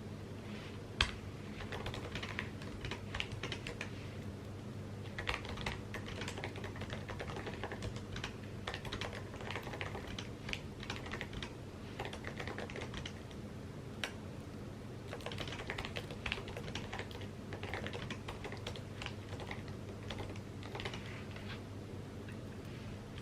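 Typing on an Apple computer keyboard: quick runs of key clicks in uneven bursts with short pauses, over a steady low hum.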